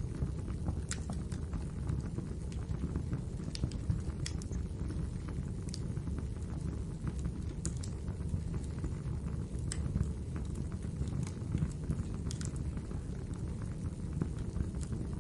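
Wood fire crackling in a fireplace: a steady low noise of burning, with irregular sharp pops and snaps every second or so.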